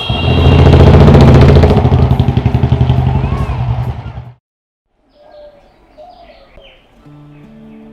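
Royal Enfield Bullet's single-cylinder engine running loud with a rapid, even beat, fading over about four seconds before cutting off abruptly. After a moment of silence, faint bird chirps and soft steady tones follow.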